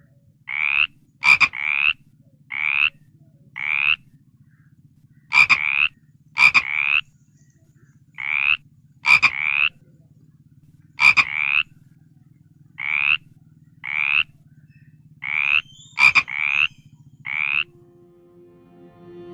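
Frog croaking: a run of short calls, each rising slightly in pitch, coming singly or in twos and threes with short pauses, with a few sharp clicks among them over a low steady hum.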